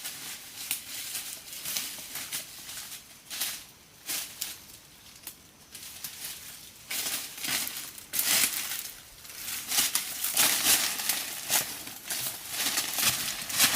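Irregular rustling and crackling of dry leaves and brush being handled, sparser for a couple of seconds in the middle and busier in the second half.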